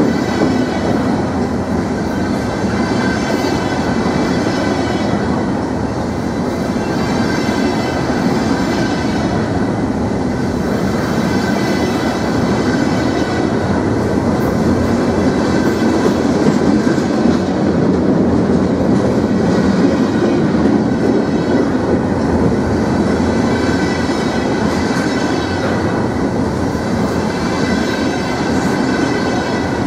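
Freight cars loaded with wind-turbine blades rolling past close by: a steady, loud rumble of steel wheels on rail, with a faint thin squeal from the wheels.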